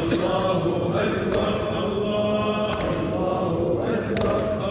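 Husseini latmiya lament chanted by a male reciter in long held sung lines, with a crowd of voices joining in. A sharp slap lands about every second and a half: the rhythmic chest-beating (latm) that keeps time in a latmiya.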